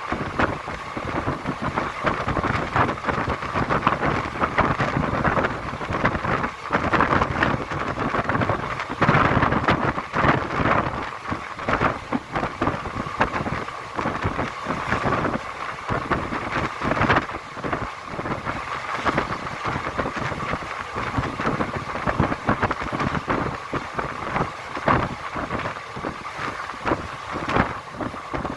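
Wind buffeting the microphone: a continuous rushing noise with irregular gusty rumbles throughout.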